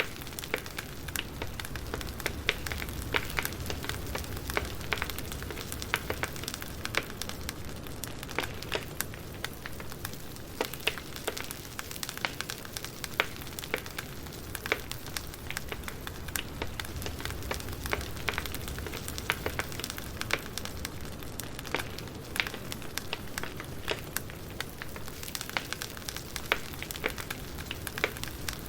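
Wood fire crackling: a steady low rumble of flames with irregular sharp pops and snaps several times a second.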